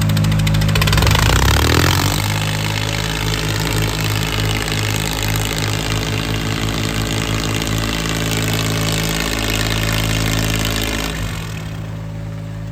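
Diesel tractor engines running hard under load in a tractor tug-of-war, with a steady pulsing beat; the engine sound eases off about eleven seconds in.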